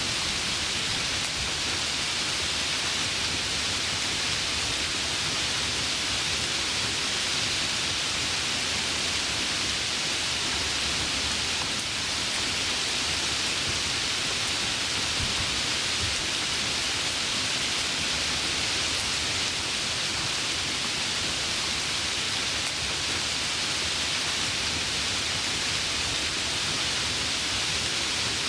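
Heavy rain falling steadily, a continuous even hiss with no break or change.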